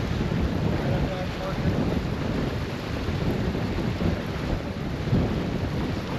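Wind buffeting the microphone aboard a sailboat under way in the rain: a steady, low, fluttering rumble with rain and water noise under it.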